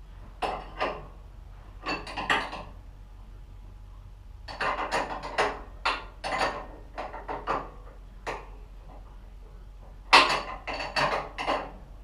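Metal tools and parts clinking and clattering as they are handled, in irregular bursts of sharp knocks. The loudest burst comes about ten seconds in.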